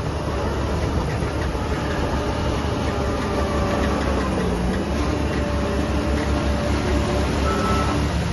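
Heavy diesel earthmoving machinery running steadily under load, a dense low rumble with the engine note drifting up and down. A short high beep near the end is the start of a reversing alarm.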